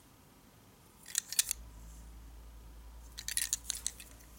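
Small wooden toy vehicles being handled and set down, giving short clusters of light clicks and clatter twice, with a faint low hum starting about a third of the way in.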